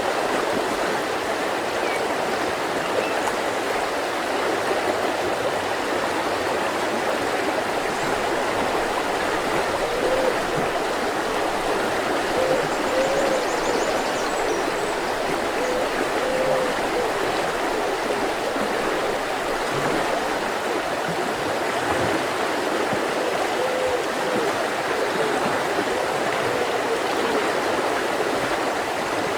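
Mountain river running over stones: a steady rush of flowing water, with a few gurgles rising out of it now and then.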